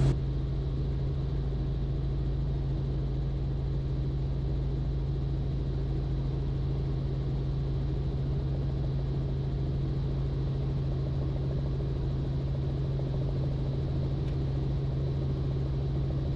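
Robinson R44 helicopter in flight, a steady low drone of engine and rotors holding at an even level while it flies a final approach to land.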